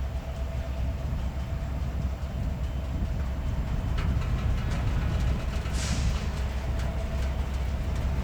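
A freight train moving slowly during switching, as the locomotive shoves a cut of cars. A diesel locomotive's rumble runs throughout with a steady whine over it. About four seconds in there is a sharp clank, followed by light clicking, and a short hiss of air comes near six seconds.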